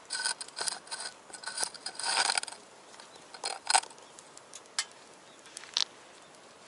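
Metal clattering and scraping with a ringing tone for about two and a half seconds, then a few separate sharp clicks.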